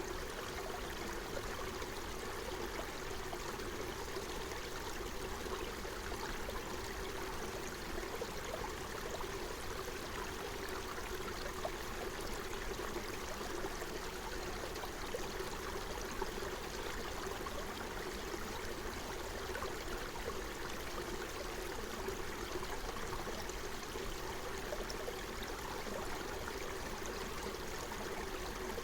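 Forest stream running steadily over stones, a continuous babbling and trickling of water.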